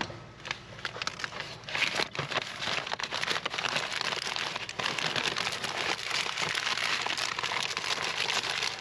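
Packaging of a new fuel injector crinkling and rustling as it is handled and opened, with dense irregular crackles from about a second in.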